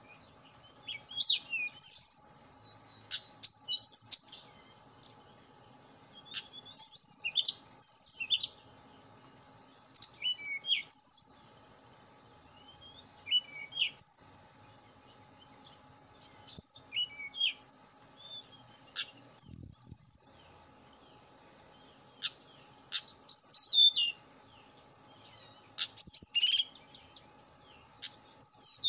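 Tledekan gunung flycatcher singing: short, high, sliding whistled phrases in clusters every second or two. There is a brief low thump near the middle.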